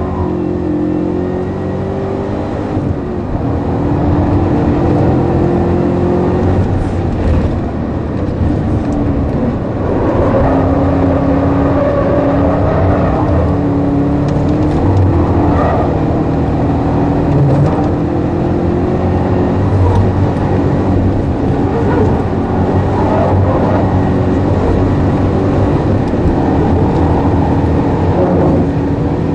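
The supercharged 6.2-litre V8 of a 2012 Chevrolet Camaro ZL1, heard from inside the cabin, pulling hard at high speed with its engine note rising and falling as the revs change through corners and gears.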